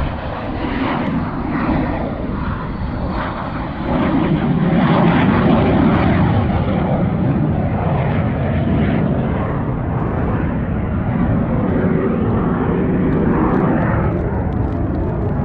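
Fighter jet flying low overhead: a loud, steady jet-engine noise that grows louder about four seconds in.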